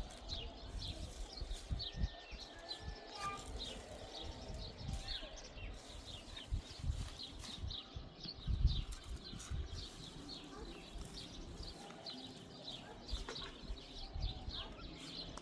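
Many small birds chirping continuously in quick, short calls, with irregular low rumbles underneath, the strongest about two-thirds of the way in.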